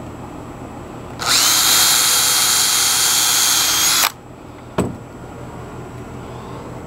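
Power drill running for about three seconds: it spins up quickly, holds a steady high whine, then cuts off. A single sharp knock follows a little under a second later.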